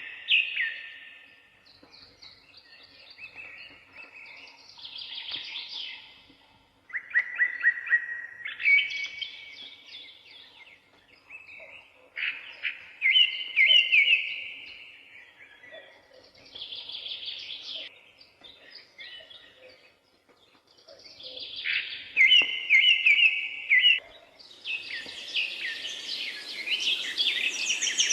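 Songbirds singing: repeated phrases of quick chirps and trills every few seconds, growing into a busier, overlapping chorus near the end.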